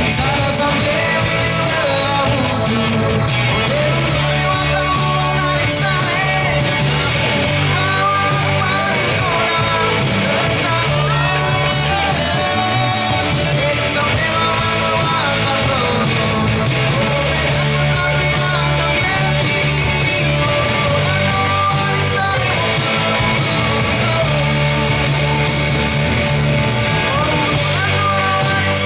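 Live band music: a rock-style song with a steady beat, bass, guitar and a singing voice.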